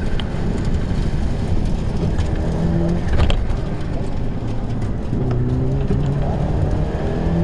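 Rally car engine heard from inside the cabin, running hard at stage speed, its pitch stepping up and down as it pulls through the gears, over dense road noise. A single thump about three seconds in.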